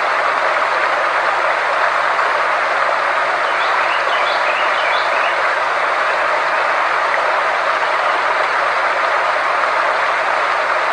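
Frequency-therapy sound track: a steady, even rushing noise in the middle range, with a faint low hum held beneath it. A few faint, short high chirps come about four to five seconds in.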